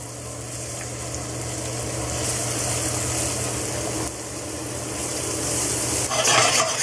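Diced shallot and garlic sizzling in hot olive oil in a stainless steel saucepan, the sizzle growing louder as the shallot goes in. Near the end, a wooden spoon stirs and scrapes the pan. A steady low hum runs underneath.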